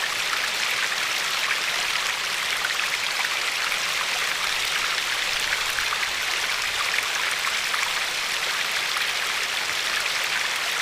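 Glacier-fed river flowing over a pebbly shore: a steady rush of running water flecked with many small splashes and droplet ticks.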